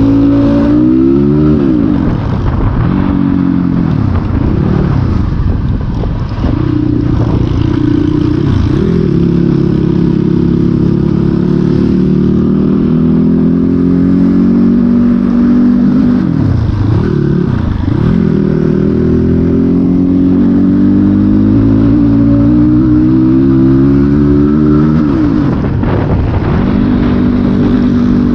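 Dirt bike engine running under load off-road, its pitch rising and falling repeatedly as the throttle is opened and closed, with steadier stretches of held revs between.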